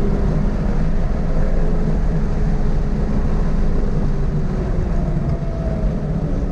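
Toyota GR86's flat-four engine and road noise heard from inside the car, a steady heavy low rumble with a faint engine tone that drifts slowly in pitch.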